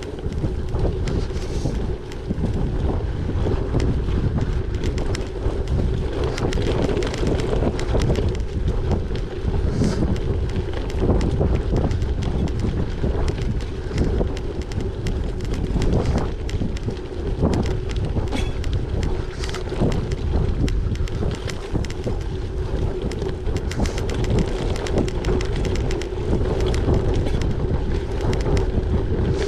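Wind buffeting the microphone over the steady rolling noise of a gravel bike's tyres on a rough track, with frequent small knocks and rattles from the bike.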